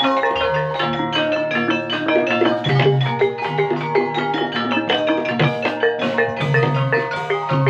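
Live Javanese gamelan music accompanying an ebeg hobby-horse dance: mallet-struck pitched percussion playing quick interlocking note patterns over a drum, at a steady level.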